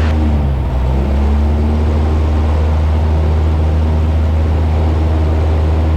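Cessna 172's piston engine and propeller droning steadily in the climb, heard inside the cabin. About half a second in, the engine note dips briefly in pitch, then settles back to a steady drone by about a second in.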